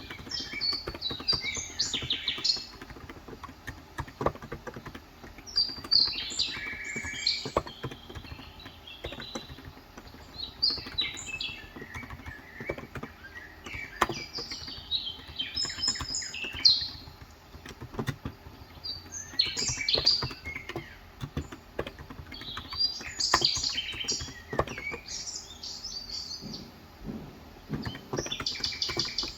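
Birds chirping and twittering in repeated short bursts, over scattered clicks of typing on a Cox Endeavour electrostatic-capacitive (35 g, tenkeyless) keyboard.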